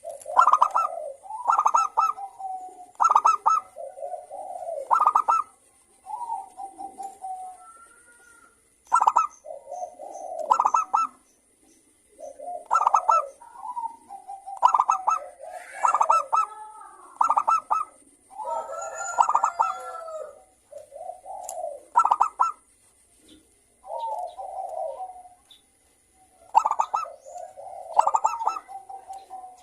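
Zebra doves (perkutut) calling back and forth in a lively chorus of repeated stuttering, clicking coo phrases. The phrases come every second or two with short gaps, and several calls overlap around the middle.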